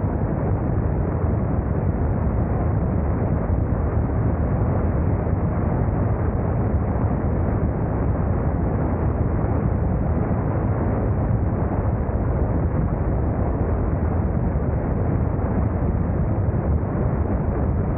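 Steady low rumble of wind buffeting the camera microphone on a motorcycle riding at speed, with no breaks or changes.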